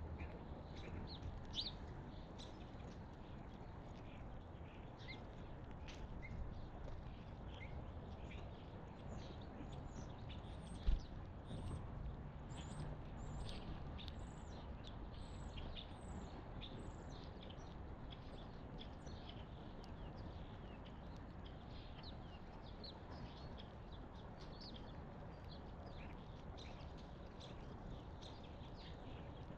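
Small wild songbirds chirping and calling, a steady stream of short high chirps over a low steady rumble, with a single sharp thump about eleven seconds in.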